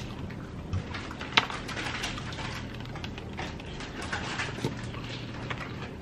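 A person bites into a crisp taco with one sharp crunch about a second and a half in, then goes on chewing with scattered crackly crunches.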